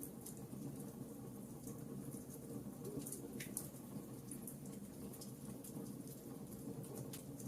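Wood fire burning logs in a fireplace: a steady low rumble with irregular small, sharp crackles and pops.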